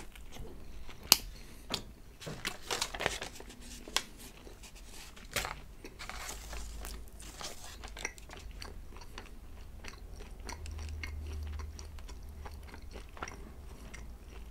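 Close-miked chewing of Domino's pizza: a few sharp, crunchy bites in the first five seconds or so, the loudest about a second in, then softer steady chewing.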